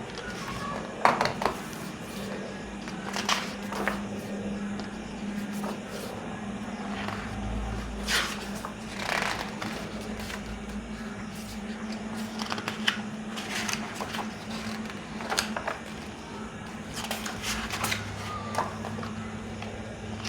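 Pages of a picture book being turned and handled, a short paper rustle or flick every second or two, over a steady low hum.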